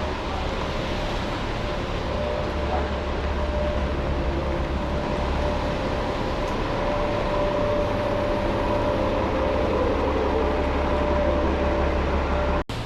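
Steady low rumble of a large vehicle with a continuous whine over it, in street noise; the sound cuts out briefly near the end.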